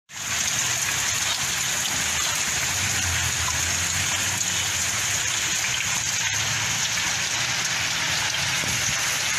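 Heavy rain pouring steadily, a constant hiss, with floodwater rushing through a flooded street.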